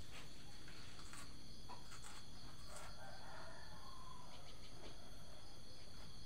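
Steady, high-pitched chirring of insects, with a few faint clicks and a fainter drawn-out call about three seconds in.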